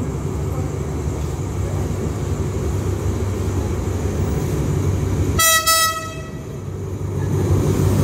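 Diesel locomotive approaching and pulling into a station, its engine running with a steady low rumble that grows louder near the end. One short horn blast sounds about five and a half seconds in.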